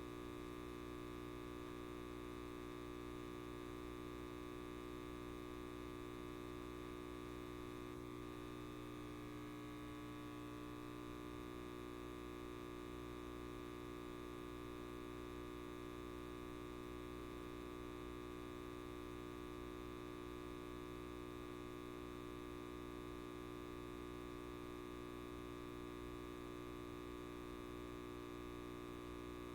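Electric light bulb buzzing: a steady mains hum made of many constant tones, unchanging in level.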